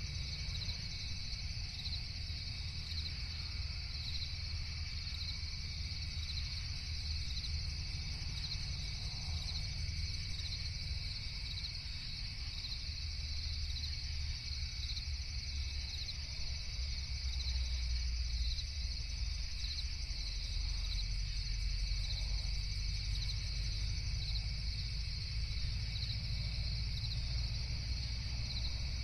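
Crickets chirping in a continuous, finely pulsing chorus over a steady low rumble.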